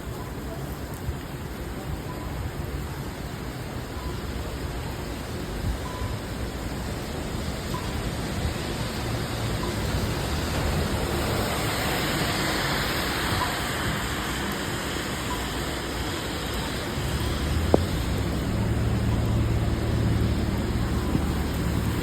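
Steady rain with city traffic noise on a wet street, a continuous even hiss. The hiss swells briefly about halfway through, a low engine hum comes in near the end, and there is a single sharp tap just before it.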